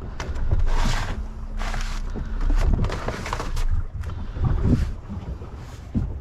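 Wind buffeting the microphone aboard a small open boat: a constant low rumble with several short bursts of hiss.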